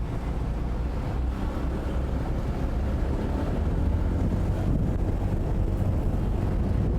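Motorcycle engine running under way in traffic, with wind buffeting the microphone as a steady low rumble that grows a little louder partway through.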